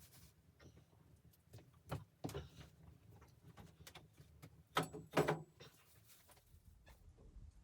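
A series of short knocks and clunks, louder around two seconds in and loudest as two or three heavier clunks about five seconds in.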